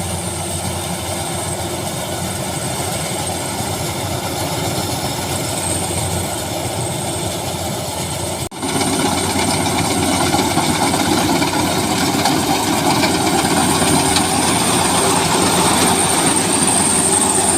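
Rice combine harvester running steadily while it cuts and threshes a rice crop, a continuous engine and machinery din. About eight and a half seconds in it breaks off for an instant and comes back louder.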